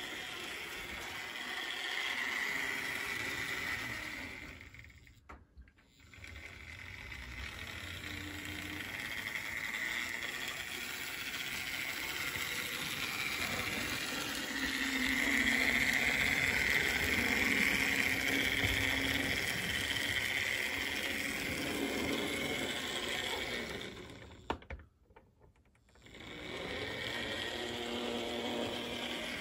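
Märklin BR89 model locomotive running on its track, a steady whirring of motor and wheels that swells and fades. It stops dead twice, briefly, and then runs again.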